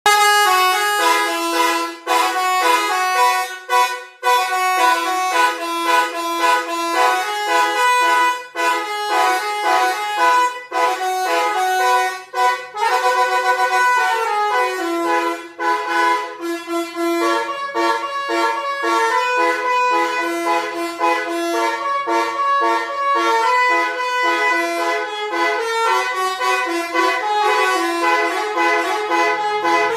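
Vehicle melody horn playing a tune, stepping from note to note with held notes and a brief sliding note partway through.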